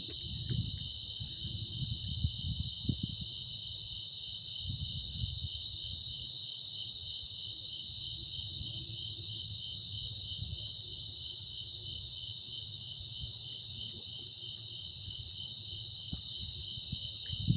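Steady chorus of night insects, a pulsing high trill, with gusts of wind rumbling on the microphone.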